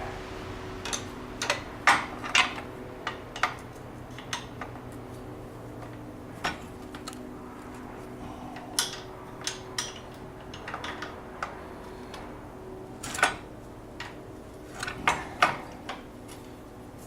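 Scattered metallic clinks and ticks of a wrench working a bolt on a snowmobile's steering and suspension, coming at irregular intervals over a steady low hum.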